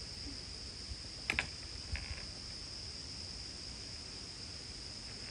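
Steady chorus of insects, an unbroken high-pitched trill, with a couple of sharp clicks a little over a second in and another near two seconds.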